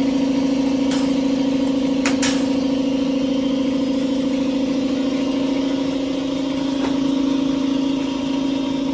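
Steady mechanical drone from a running motor, holding one pitch throughout, with a couple of sharp clicks about one and two seconds in.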